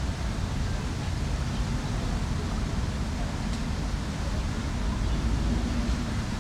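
Steady outdoor city-park ambience: a low rumble with an even hiss over it and faint distant voices, with no single event standing out.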